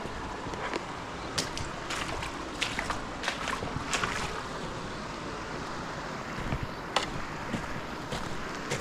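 River water lapping and splashing against the bank, a steady rush with many small irregular splashes and ticks, mixed with wind on the microphone.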